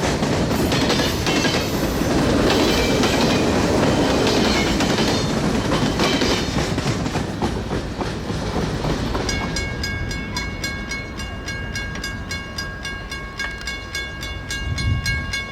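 Freight train rolling past: the cars rumble and clatter over the rail joints, with flange squeal from the wheels on the curve. About nine seconds in the rumble fades, and a steady high ringing tone with a fast, even pulse takes over.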